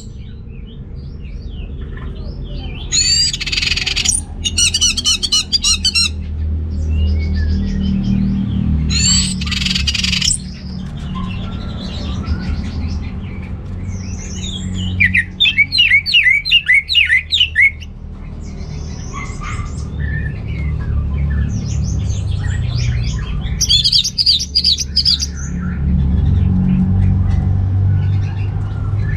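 Orange-headed thrush singing in about four bursts of rapid, repeated whistled and chattering notes with pauses between them, over a steady low hum.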